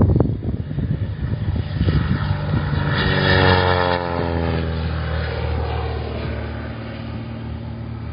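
A Cessna propeller plane flies past. Its engine and propeller tone is loudest about three to four seconds in and falls in pitch as it goes by, then settles into a steadier, fading drone.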